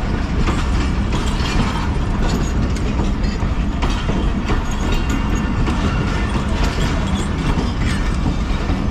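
Passenger train rolling along the track: a steady low rumble with steel wheels clicking over rail joints throughout.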